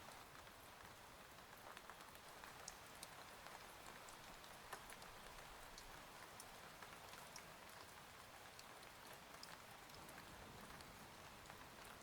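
Faint steady rain, a soft even hiss with many small scattered drop ticks.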